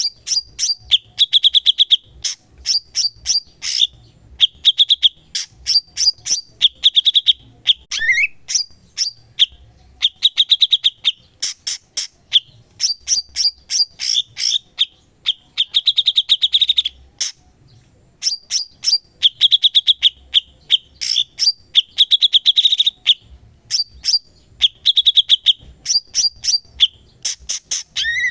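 Cucak cungkok singing nonstop: fast, ticking trills, some held for about a second, mixed with bright, high short notes. The phrases repeat with only brief pauses between them.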